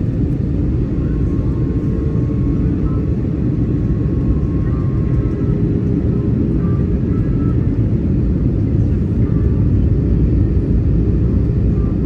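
Steady, loud, low cabin noise of an Airbus A320-200 with its two CFM56-5B engines running.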